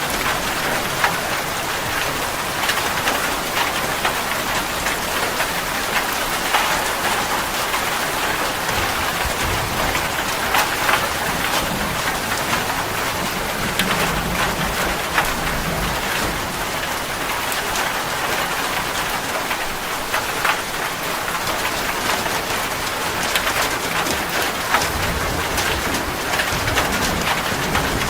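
Steady heavy rain, a dense hiss with many individual drops tapping sharply through it, and a low rumble swelling in at times.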